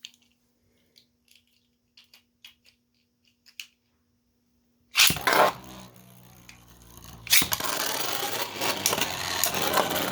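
Scattered small plastic clicks as Beyblade tops are handled and set on launchers, then a sudden loud launch about five seconds in. From about seven seconds in, 3D-printed Beyblade tops spin and clash in the stadium, a dense grinding rattle with repeated sharp hits.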